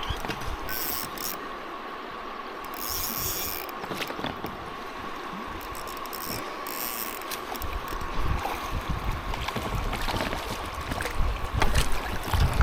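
Fishing reel at work while a large shoal bass is fought: the reel is cranked and the drag gives line in short ratcheting bursts. A few louder knocks come near the end.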